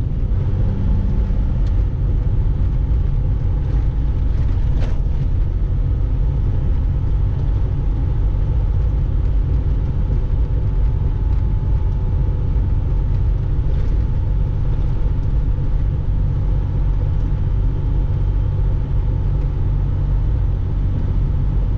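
Loaded semi-truck's diesel engine and road noise heard from inside the cab: a steady low rumble with a faint steady drone above it.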